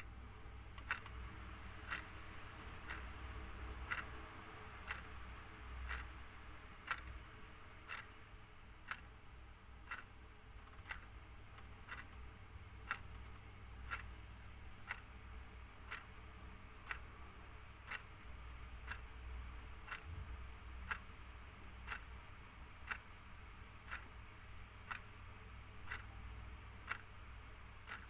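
Mechanical clock ticking steadily, about two ticks a second with every other tick louder, over a faint low hum.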